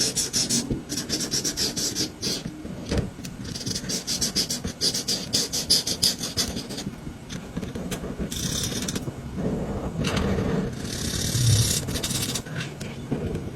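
Colouring strokes on paper: runs of rapid back-and-forth strokes at the start and again a few seconds in, then a couple of longer, slower strokes.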